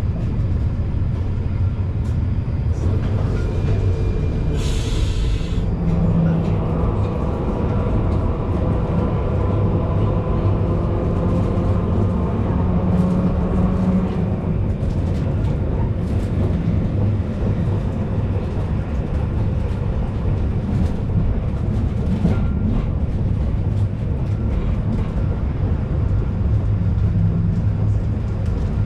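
Historic Trieste–Opicina tram running with a steady low rumble. About five seconds in there is a short hiss, followed by a faint whine that holds for several seconds.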